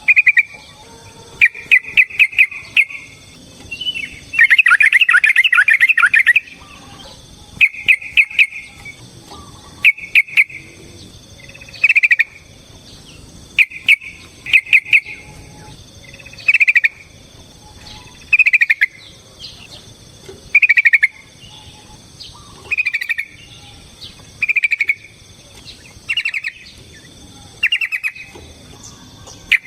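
Yellow-vented bulbul (trucukan) singing in short, loud phrases repeated every one to two seconds, with one longer phrase of about two seconds around four seconds in.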